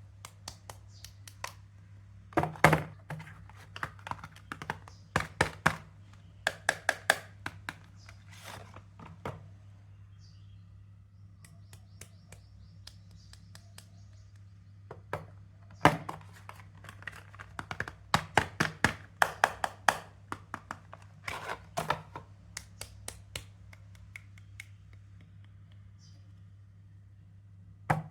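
Soap bars and their wrappers being handled and tapped: clusters of sharp taps and clicks, with a quieter pause in the middle, over a faint low hum.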